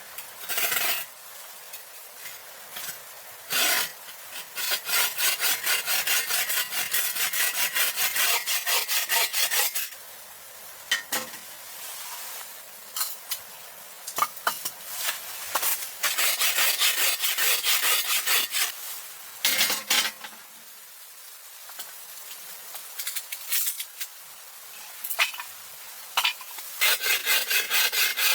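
A hand saw cutting wood in runs of quick, even strokes, with pauses and a few separate knocks between the runs.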